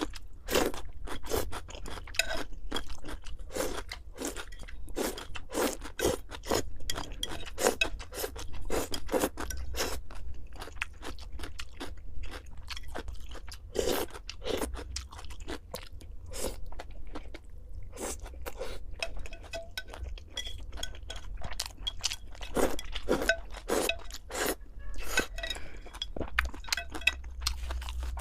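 A person chewing crunchy food close to the microphone: irregular crisp crunches in quick runs, with a few short pauses between bites.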